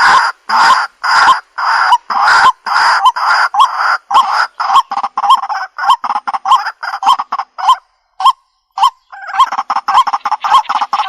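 Waterhen calling: a series of harsh, repeated croaks, about two a second, that quicken into shorter notes, break off briefly about eight seconds in, then resume in a dense, overlapping run.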